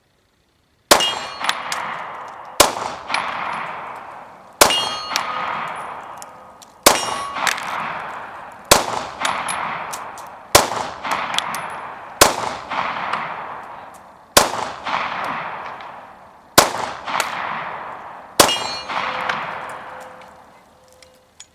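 FMK 9C1 9mm pistol firing ten single shots of 115-grain remanufactured ammunition at a slow, steady pace, about one every two seconds. Each shot is followed by a long ringing echo that fades before the next.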